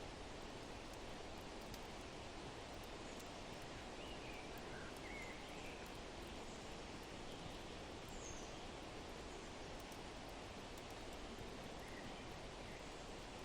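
Faint steady wind-like rushing noise, with a few faint, short bird chirps scattered through (several around the middle, one near the end) and occasional small fire crackles.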